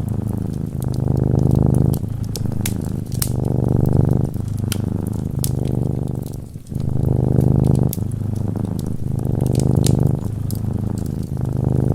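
Domestic cat purring steadily, the low rumble swelling and easing in cycles of a second or two as it breathes in and out. Scattered sharp crackles from a wood fire sound over it.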